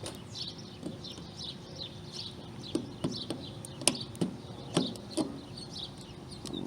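A small bird chirping over and over in short, falling notes. Several sharp clicks come through the middle from handling the capacitor's wire terminals.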